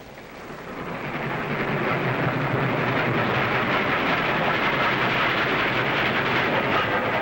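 A train running on the rails, a steady rushing rumble that swells over the first two seconds and then holds.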